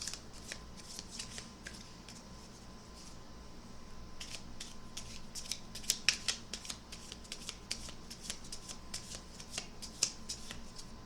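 A mini Night Sun Tarot deck being shuffled by hand: quick, irregular card flicks and riffles, thinner for a couple of seconds early on, then busy, with sharper snaps about six and ten seconds in.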